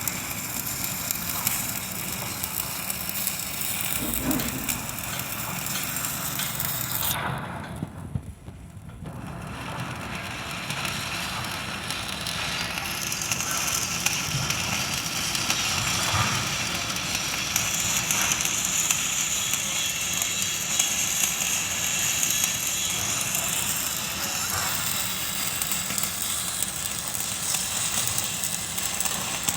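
Electric arc welding on structural steel: a steady crackling hiss from the arc. It breaks off about seven seconds in and starts again a couple of seconds later.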